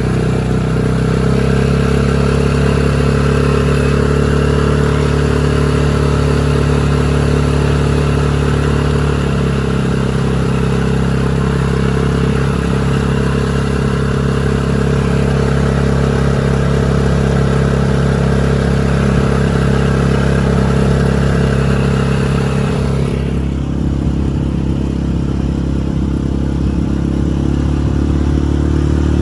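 Small outboard motor running steadily, pushing an inflatable boat along. Its pitch shifts slightly a couple of times, and the hiss above it drops away abruptly near the end.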